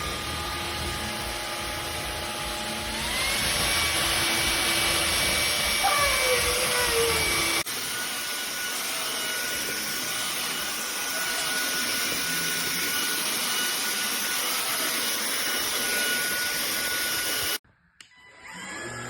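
MONSGA cordless stick vacuum's motor running with a steady whine. About three seconds in it speeds up to a higher, louder pitch, then changes abruptly about halfway through, and it stops near the end.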